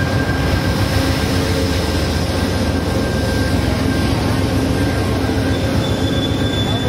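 Amtrak passenger train departing. Its diesel locomotive's engine drones steadily over the rumble of wheels on the rails, and a faint high wheel squeal comes in near the end.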